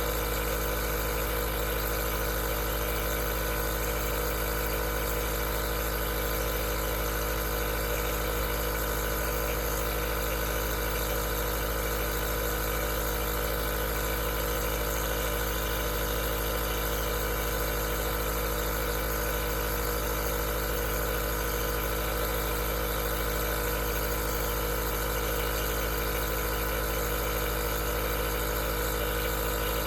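Aerosol nebulizer running, a steady, unchanging motor hum with hiss.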